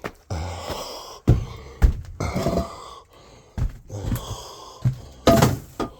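A man's heavy breaths, gasps and grunts of effort as he moves about, with a few sharp thumps mixed in.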